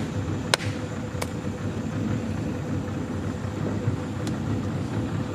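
Boat motor running with a steady drone, with three short sharp clicks or knocks over it.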